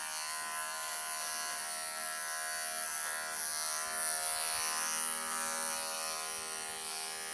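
Wahl professional electric pet clippers running with a steady buzz, clipping a Persian kitten's coat.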